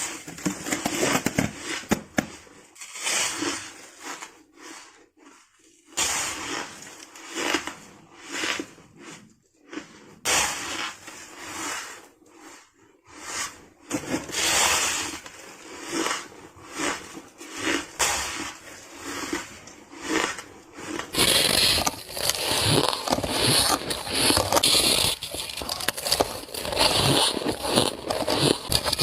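Soft ice being bitten, close up: irregular crisp crunches and crackles between short pauses, turning louder and more continuous about three-quarters of the way through.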